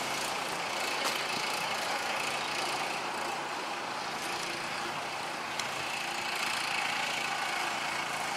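6.5 hp single-cylinder Honda-clone engine running steadily in a converted old Farmall tractor as it is driven along.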